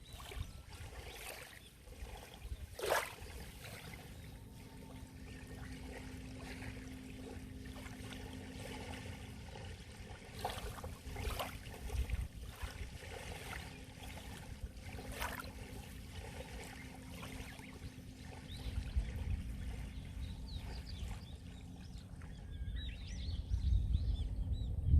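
Sea water lapping and splashing at the shore, with a low wind rumble and a few sharper splashes. A faint steady hum runs through most of it, and birds chirp near the end.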